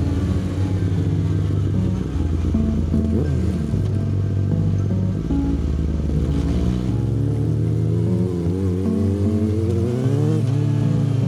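Yamaha R6 600cc inline-four with an Akrapovic exhaust accelerating, its pitch climbing for a few seconds and then dropping suddenly at a gear change about ten seconds in, with background music.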